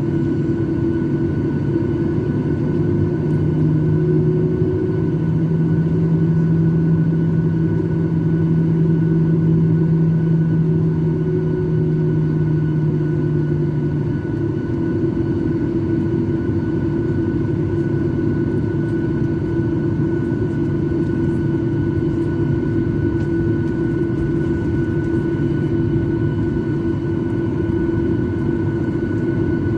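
Jet airliner's engines heard inside the cabin around takeoff: a loud, steady rumble with steady whining tones. A low hum drops away about halfway through.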